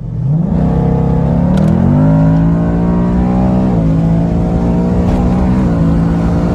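2019 Ford Mustang GT's 5.0-litre V8, E85-tuned, starting up: the revs flare up, then drop in two steps, about a third of the way in and near the end, toward a fast idle.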